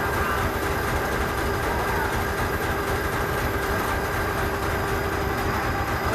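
Forklift engine running steadily at idle, a low rumble.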